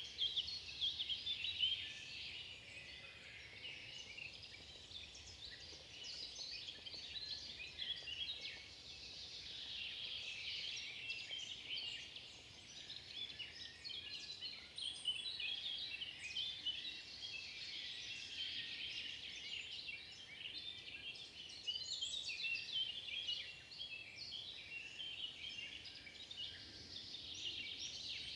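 Many small songbirds chirping and chattering at once, a dense unbroken run of short high calls.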